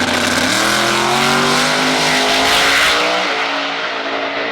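Twin-turbocharged 481X Proline V8 in a Foxbody Mustang drag car launching and pulling down the track. The engine note jumps up about half a second in and climbs, shifts gear about three seconds in, then fades as the car pulls away.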